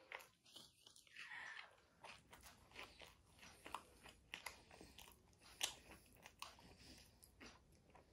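A person chewing a mouthful of burger: faint, irregular crunches and small mouth clicks.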